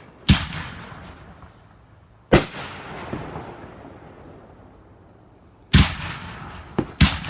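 Fireworks going off: four loud booms, one right at the start, one about two seconds in and two close together near the end, each trailing off in a fading rumble.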